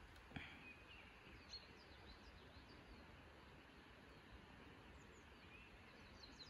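Near silence: faint outdoor ambience with scattered short, high chirps of small birds, and one soft click about half a second in.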